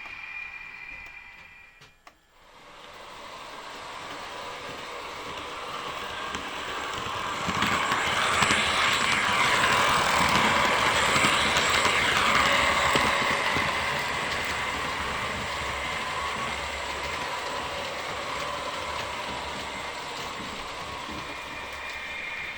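Märklin H0 model train running on three-rail metal track: a clicking rattle of wheels over the rails that comes in after a brief near-silence, is loudest in the middle as the train passes close, then slowly fades.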